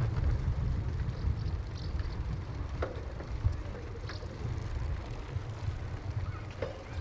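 Uneven low rumble of wind and riding noise on the microphone of a moving bicycle, with a few faint short high sounds scattered through it.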